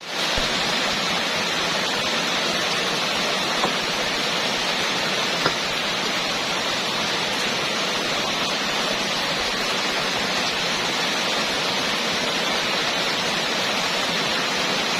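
Heavy rain pouring down steadily, with two brief ticks in the first six seconds.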